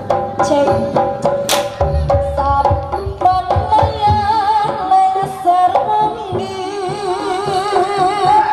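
Javanese gamelan-style music with hand-drum (kendang) strokes and melodic tones. From about three seconds in, a female sinden voice sings a held line with wavering pitch.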